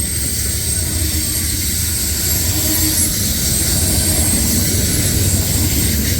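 Freight cars of a long mixed freight train rolling past at speed: a steady low rumble of steel wheels on rail, with thin high-pitched tones held above it.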